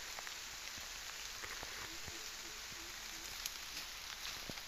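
Steady hiss like rain falling on leaves, with scattered light ticks and a few faint short low tones in the middle.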